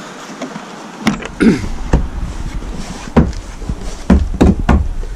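A turn-button door latch is turned and a door is opened: a click about a second in, then a string of knocks and clicks.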